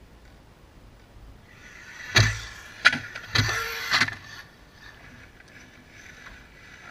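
Radio-controlled car running in short spurts of its small electric motor, with two sharp knocks about two and three seconds in.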